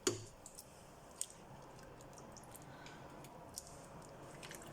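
Soup being stirred in a pot with a spoon: faint scraping and ticking, with a sharp knock of the spoon against the pot right at the start and a smaller one about a second in.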